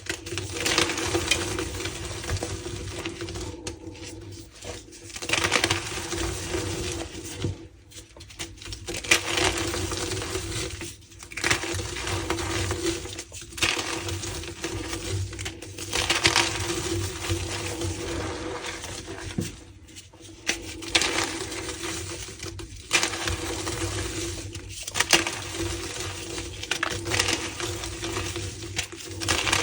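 Reformed gym chalk blocks being crushed by hand, giving dense crunching and crumbling in repeated bouts with short pauses between them.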